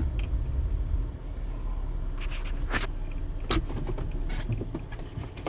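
Low rumble of a car, easing about a second in, then several sharp clicks and knocks.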